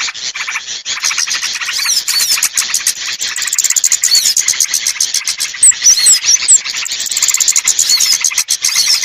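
Bird-lure recording of small birds chirping: a dense, rapid twittering chatter with a few short high whistles scattered through, played to draw wild small birds down.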